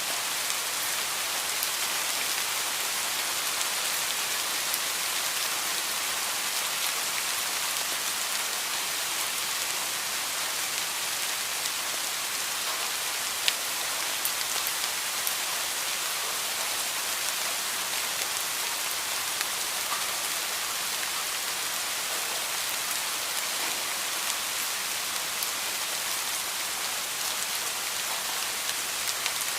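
Heavy rain falling steadily, a dense even hiss with many small drop ticks and one sharper tick about halfway through.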